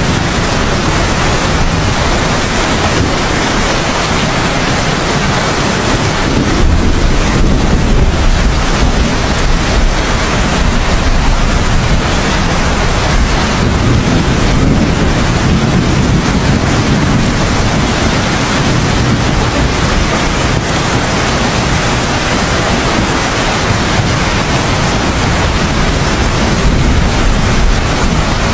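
Steady downpour of rain, with low thunder rumbling in the background that swells about a quarter of the way in and again near the middle.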